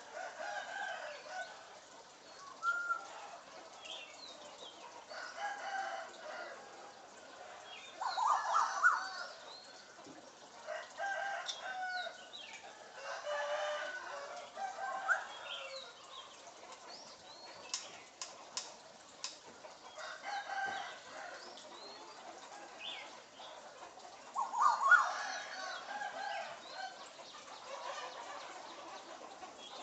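African grey parrot calling in repeated bouts of chicken-like vocal sounds, the loudest about a third of the way in and again near the end, with a quick run of sharp clicks around the middle.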